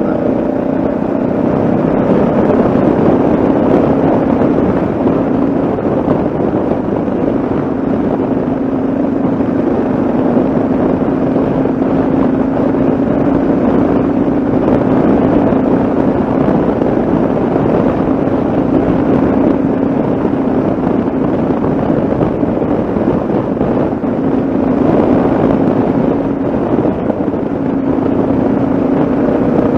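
Yamaha XT660Z Ténéré's single-cylinder engine running at a steady cruising speed, its note holding even, with wind rushing over the microphone.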